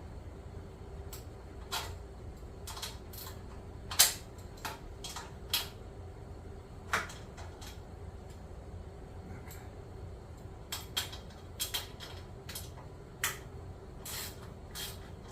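Scattered clicks and knocks of hand work on an exercise bike's parts as one side is fastened, the loudest knock about four seconds in, over a faint steady hum.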